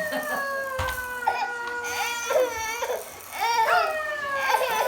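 A child crying in long, drawn-out wails, each slowly falling in pitch. There are two main wails, with a short break a little past the middle.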